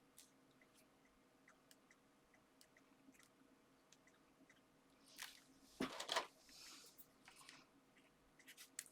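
Card and paper being handled on a craft desk: mostly near silence with faint small ticks, then a brief burst of rustling and crinkling about five seconds in.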